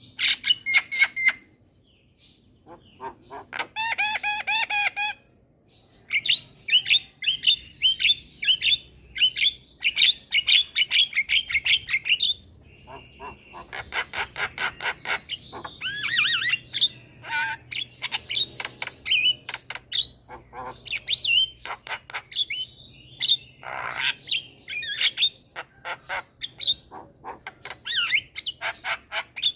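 Javan myna (jalak kebo) singing hard: a fast, varied stream of whistled notes, harsh squawks and rapid clicking chatter, with hardly a pause.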